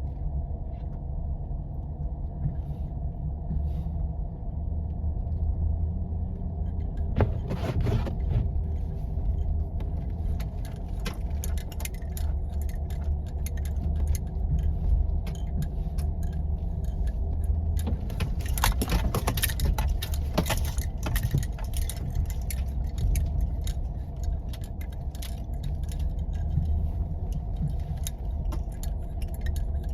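A 4x4 driving on a snow-covered back road: a steady low rumble of engine and tyres, with rattling and clicking that thickens about a quarter of the way in and again just past the middle.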